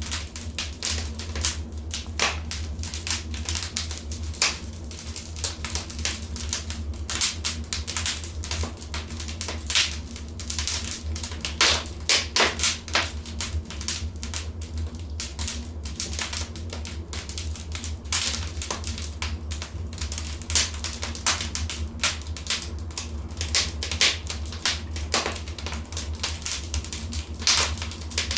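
Wood fire crackling in a fireplace: irregular sharp pops and snaps, several a second, some louder than the rest, over a steady low rumble of the burning.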